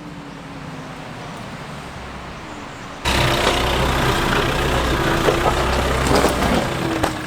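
Nissan Navara NP300 ute creeping along a rocky creek-bed track in first gear low range, engine idling while the tyres roll and crunch over rocks, with scattered knocks. About three seconds in the sound suddenly gets louder and heavier.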